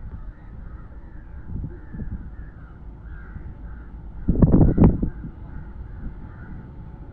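Crows cawing over and over, over a low outdoor rumble, with a loud low rumble for about a second, four seconds in.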